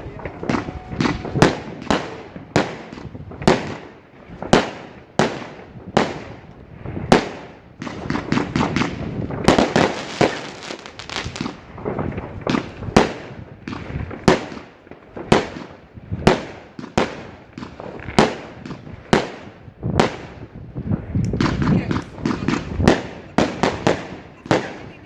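Fireworks display going off: a steady run of sharp bangs, about one or two a second, with denser stretches of crackling about ten seconds in and again near the end.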